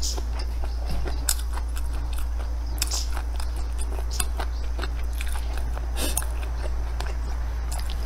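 Close-miked chewing and mouth sounds of someone eating fried rice: soft wet smacks and sharper clicks scattered irregularly, over a steady low hum.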